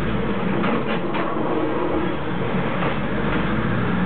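Diesel railcar running slowly along the track, heard from inside its driver's cab: a steady low engine hum under even running noise from the wheels and rails.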